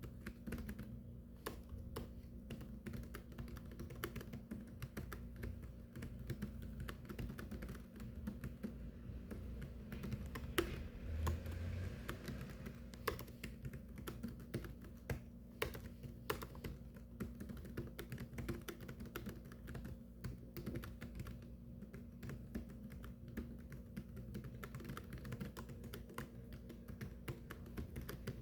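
Continuous typing on a computer keyboard: fast, irregular keystrokes, with a low steady hum underneath.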